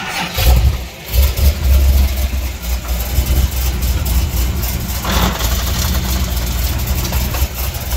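Chevrolet Corvette C6 Z06 running with a steady low drone. A noise comes from the middle of the car, which the driver suspects is the torque tube.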